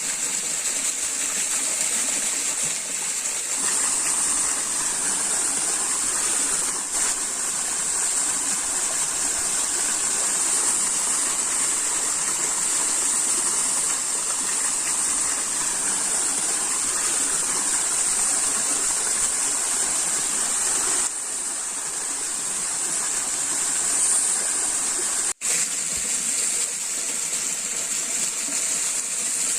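Steady rushing of flowing stream water, with a high, even hiss over it; the sound briefly cuts out once near the end.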